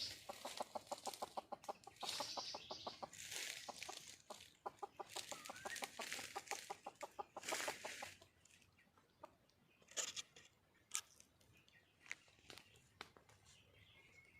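Junglefowl hen clucking in a fast run of about ten clucks a second, broken by harsher, noisier calls, for roughly the first eight seconds, then only a few scattered sharp clicks. It is a wild hen's call for a mate.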